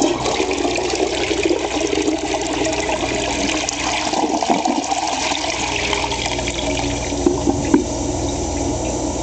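1989 Universal Rundle 1.5-gallon-per-flush gravity tank toilet flushing: water rushes from the tank through the bowl and drains away.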